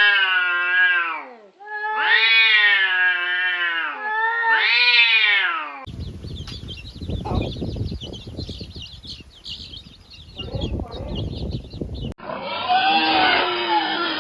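A cat yowling: three long, drawn-out, wavering meows, each about a second and a half. From about six seconds in, a noisier, scratchy sound of a different kind follows, and a new clip begins near the end.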